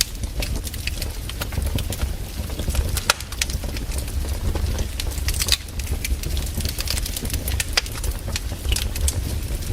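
Wood fire crackling: irregular sharp pops and snaps over a low steady rumble of the burning logs.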